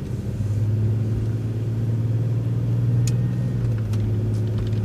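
City transit bus running steadily through a turn, a constant low engine drone with road rumble. A single sharp click sounds about three seconds in.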